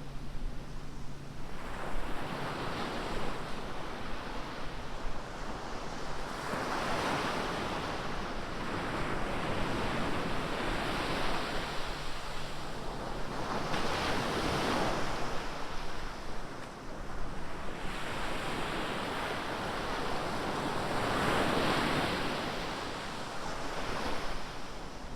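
Ocean surf breaking on a beach, the wash of the waves swelling and falling every few seconds.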